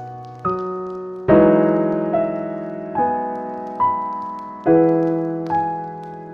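Slow, gentle solo piano music: single notes and chords struck about once a second, each ringing and fading before the next, with fuller chords about a second in and near the end.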